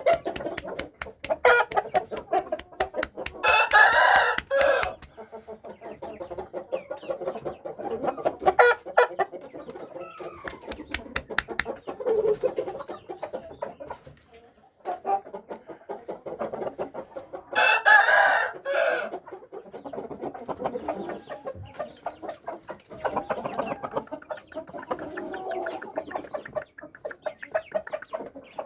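Shamo gamecocks crowing twice, each crow long and loud, with clucking from the chickens between the crows.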